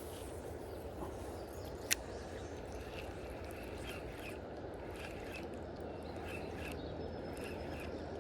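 Steady rush of river water with a small bird calling in short, repeated chirps from about three seconds in. A single sharp click sounds near two seconds.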